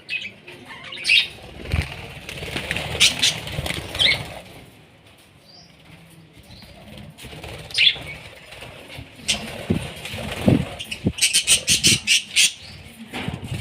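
Budgerigars chirping in short, sharp bursts, with wing flapping and fluttering; a quick run of chirps comes near the end.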